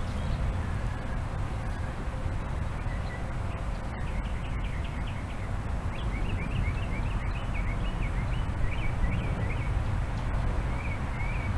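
A songbird chirping a quick run of short, high notes, starting about three seconds in and stopping shortly before the end, over a steady low rumble.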